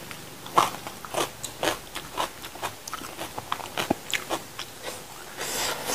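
A person chewing crunchy food with the mouth close to the microphone: irregular crisp crunches and wet mouth clicks, one or two a second, with a short hiss near the end.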